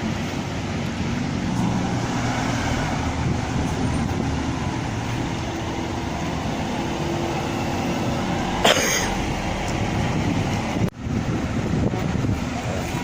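Scania K320iA articulated bus with a 9-litre engine running steadily, a continuous low engine hum mixed with road and traffic noise. A brief sharp noise stands out about nine seconds in.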